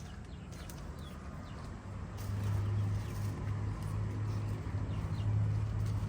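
Birds chirping over a low steady hum that grows louder about a third of the way in.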